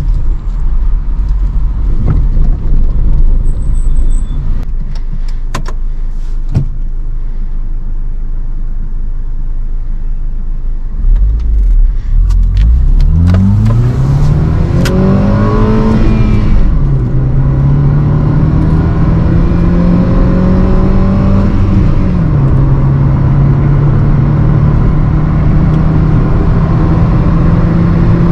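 Hyundai i20's 1248 cc four-cylinder petrol engine accelerating hard through the gears. The first ten seconds or so are tyre and road rumble with a few knocks from rough road. Then the engine pitch climbs, falls at an upshift, climbs again, falls at a second upshift and settles to a steady cruise.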